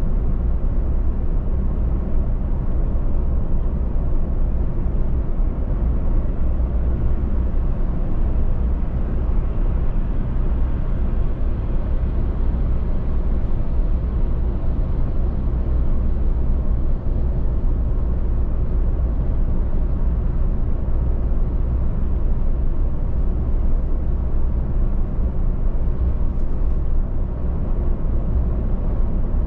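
Steady road and engine noise of a car driving at speed, heard from inside the cabin: a low, even rumble with no sudden events.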